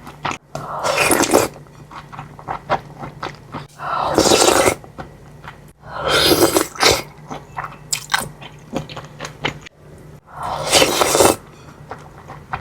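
Close-miked eating of bakso meatball soup: chewing with small clicks and spoon scrapes, broken by four louder noisy bursts about a second long, spread two to four seconds apart.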